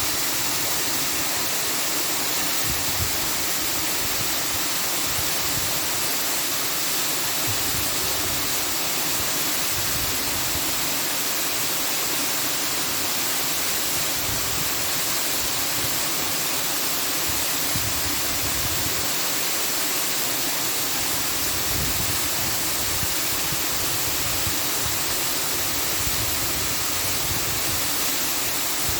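Steady, even rushing noise that does not change, like falling water or a noise generator.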